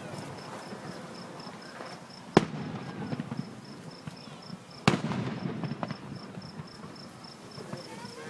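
Two aerial fireworks bursts, sharp bangs about two and a half seconds apart, each followed by a rumbling crackle as it dies away. A high, evenly pulsed chirping runs steadily underneath.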